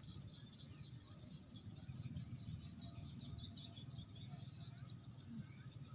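Insects chirping in a steady chorus, a fast pulsing high-pitched trill like crickets, over a faint low background noise.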